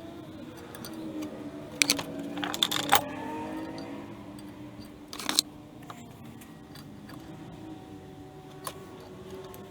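Metal lathe parts and tools clinking and clattering as they are handled. There is a cluster of sharp metallic clinks about two to three seconds in, another just after five seconds, and a lighter one near the end.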